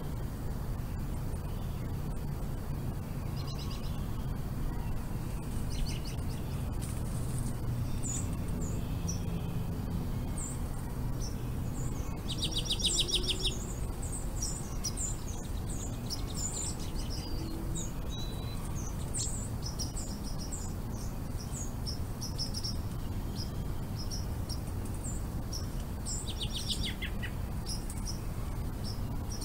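Wild songbirds calling: many short, high chirps scattered through, with a rapid trill about halfway and another, falling one near the end. A steady low rumble runs underneath.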